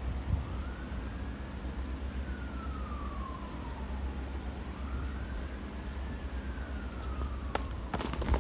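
A siren wailing slowly in the distance, its pitch rising and falling about every four seconds, over a steady low rumble. A few sharp cracks come near the end.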